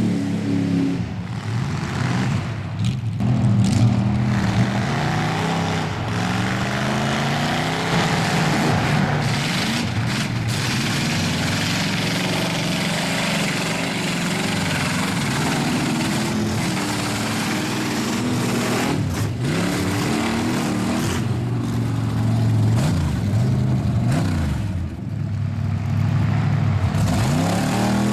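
Mud truck engine revving loudly, its pitch rising and falling again and again.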